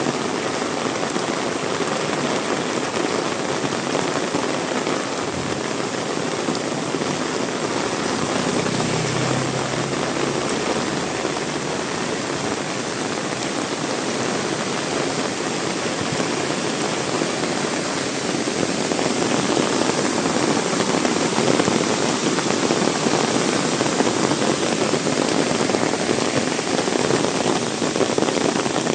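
Heavy rain falling steadily and splashing on surfaces. It gets somewhat louder about two-thirds of the way through, and a faint low hum passes briefly about eight seconds in.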